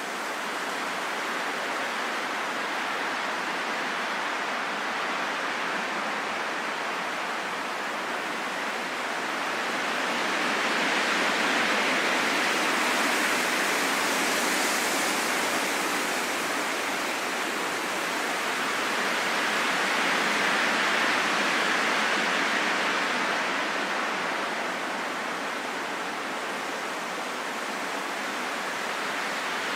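Strong wind blowing as a steady, hissing rush that swells twice in long gusts.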